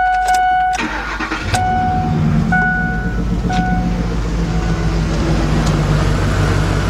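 Lincoln Navigator's 5.4-litre V8 cranked and started about a second in, then idling with its number 4 ignition coil unplugged, so it runs on seven cylinders with a deliberate misfire. The dash warning chime sounds steadily at first, then dings three times as the engine catches.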